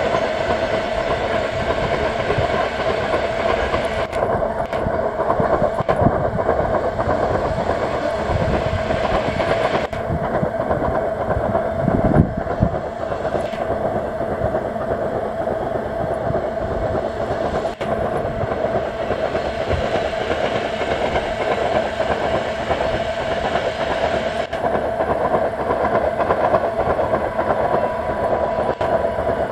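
Loaded iron-ore gondola wagons rolling past at about 64 km/h: a steady heavy rumble of wheels on rail with rapid clickety-clack over the joints and a steady whine above it. About 12 seconds in, one louder thump stands out.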